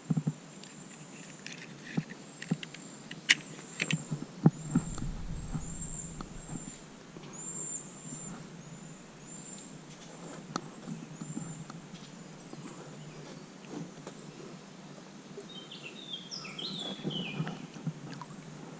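Outdoor creek ambience: small birds calling, with a run of short, high chirps through the first half and a falling series of notes near the end. A few sharp knocks and clicks come in the first few seconds, followed by a brief low rumble of wind on the microphone.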